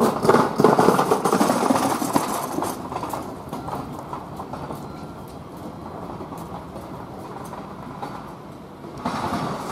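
N700A Shinkansen train rolling slowly into the station, its wheels clicking over the rail joints and points. The running noise is loudest in the first few seconds, eases to a steady lower level, then swells again near the end.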